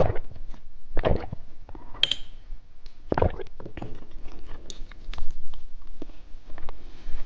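Close-miked chewing of candy: wet mouth clicks and smacks, irregular, with a few louder smacks near the start, about a second in and about three seconds in.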